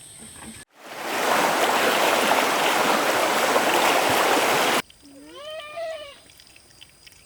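Water running hard and steadily for about four seconds, then cutting off abruptly. A short, high, wavering cry follows.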